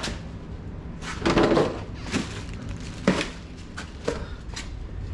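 A few knocks and thuds, the loudest just over a second in and a sharp click about three seconds in, over a steady low hum.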